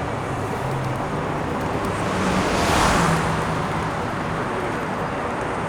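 Steady city road traffic, with one vehicle passing by that swells and fades about two to three seconds in.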